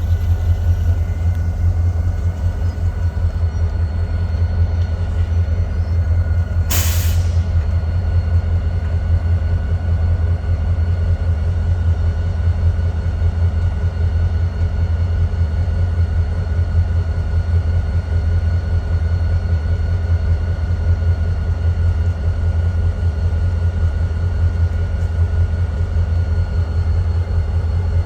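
Diesel locomotive engine idling with a steady low rumble, and a short sharp burst of air hiss about seven seconds in, like an air brake release.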